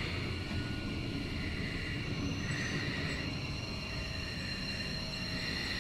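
A train running past on the rails: a steady rumble of wheels and cars, with thin high ringing tones over it and a hiss that swells and fades about once a second.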